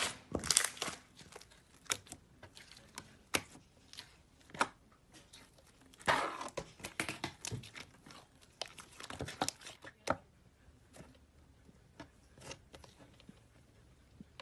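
Slime being stretched, pulled apart and kneaded by hand, giving irregular crackling and popping clicks. The loudest crackly bursts come right at the start, around six seconds in and again near ten seconds, then only a few faint clicks.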